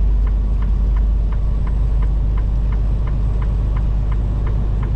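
Steady low rumble of a semi-truck's engine and road noise heard inside the cab. Through it runs a sharp, even ticking about three times a second: the turn-signal flasher, on for the exit.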